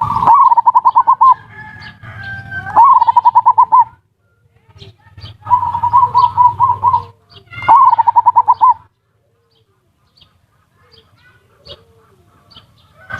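Zebra dove (perkutut) cooing: four trilled coo phrases, each about a second long, made of rapid even pulses at a steady pitch, with faint high chirps between them. These are the ngerot and kuwor call types, used as a lure to stir other zebra doves into calling.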